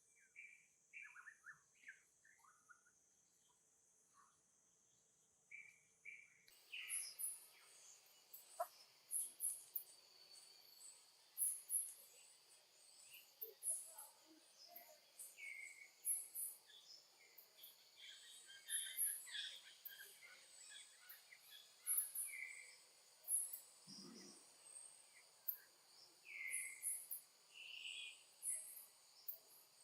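Outdoor wildlife ambience: many short, high chirping calls at irregular intervals over a steady high insect hiss. The background changes abruptly about six seconds in.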